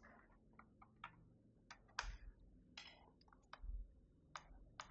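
Keys being pressed on a Keychron V6 Max mechanical keyboard: a dozen or so faint, irregularly spaced clicks as buttons are tried one after another.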